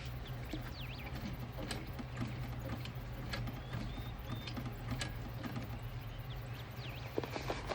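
Scattered light clicks and taps of handling at a sewing table over a steady low hum, with a few faint high chirps.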